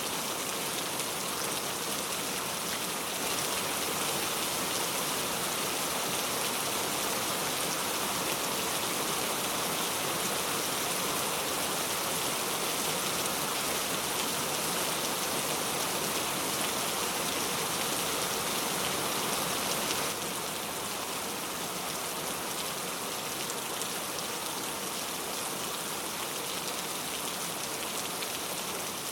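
Steady rain falling, an even hiss with no other sounds; about two-thirds of the way through it steps slightly quieter.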